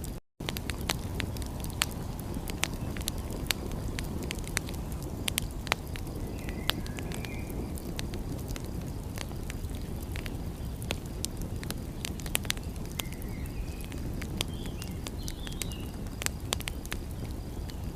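Wood fire crackling with frequent sharp pops over a steady low rush of noise. A few short, high chirps come about six seconds in and again near thirteen to sixteen seconds in, and the sound drops out for a moment just after the start.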